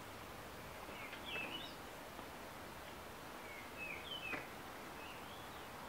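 Faint birds chirping: short gliding calls in small groups, about a second in, around four seconds and again near five seconds, over a steady outdoor hiss.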